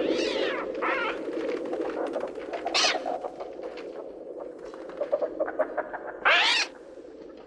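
Synthetic bird sounds from a Mixtur-Trautonium: a dense, steady cooing-and-fluttering din with four piercing shrieks that rise and fall. There is a patter of clicks shortly before the last and loudest shriek, and after it the din drops away.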